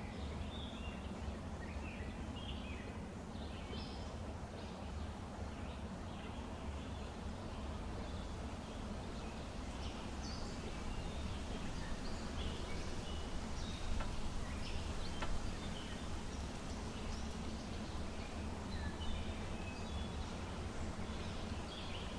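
Small birds chirping in short, scattered calls over a steady low background rumble of wind and city noise, with a couple of sharp clicks in the middle.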